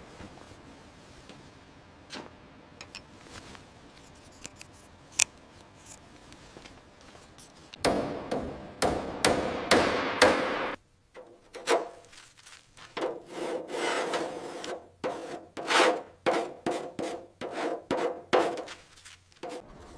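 Hand-worked scraping or rubbing strokes on a surface, like filing or sanding. A few faint ticks come first, then about eight seconds in a quick series of back-and-forth strokes starts and keeps going with short pauses.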